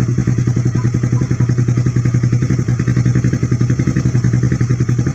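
Honda CBR150 single-cylinder engine, bored up to 160cc, running steadily through an aftermarket FU CKD Thailand exhaust, with an even, pulsing exhaust note and no revving.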